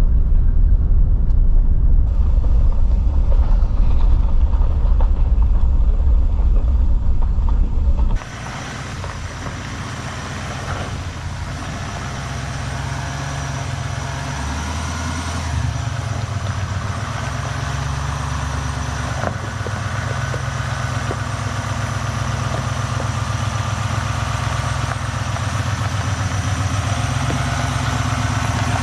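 Vehicle engine and road rumble while driving. A heavy low rumble cuts off suddenly about eight seconds in, giving way to a steadier engine hum that slowly grows louder.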